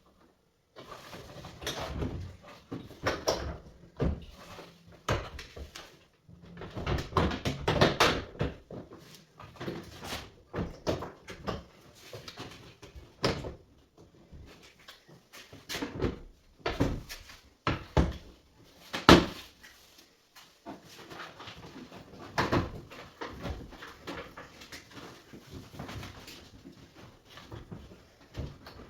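Irregular knocks, clicks and clatter of hand tools and parts being handled while working on a washing machine, with a sharp louder knock about two-thirds of the way through.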